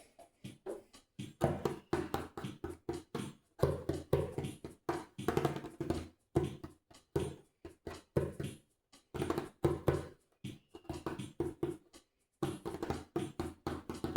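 A bare right hand tapping and slapping the top of a djembe, improvising in irregular flurries of quick strokes broken by short pauses, including a longer pause near the end.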